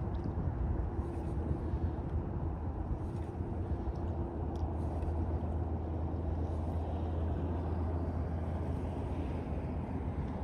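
A steady low engine-like hum with an even rumble beneath it, holding level throughout.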